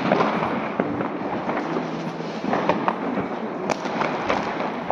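New Year's fireworks and firecrackers going off all around: a dense, unbroken crackle of many bangs, with sharper single reports standing out about once a second.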